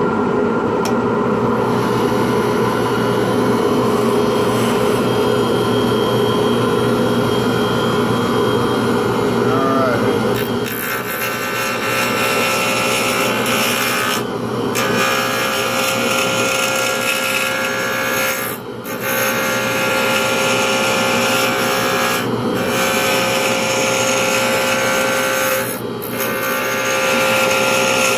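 A power tool running steadily while a pen blank is worked. Its tone shifts about ten seconds in, then it briefly drops away several times, a few seconds apart.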